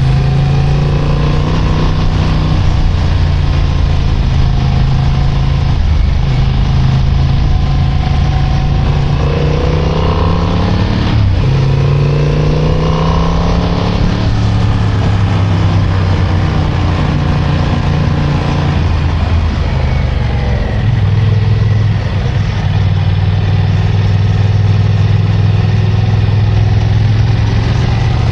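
Motorcycle engine running under way on a winding road, its pitch rising and falling with the throttle; about eleven seconds in there is a brief break and then a rising climb in pitch, with wind and road noise throughout.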